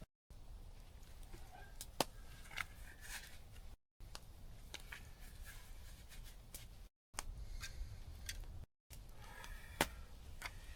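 Scattered sharp clicks and light knocks over a low steady rumble, broken by three brief dropouts.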